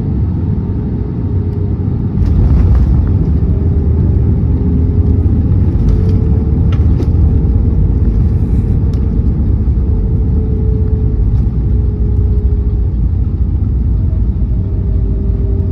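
Airbus A320neo cabin noise heard from a window seat: a loud, steady rumble of the engines and airframe, with faint engine tones drifting slightly in pitch. The rumble grows louder about two seconds in and stays there.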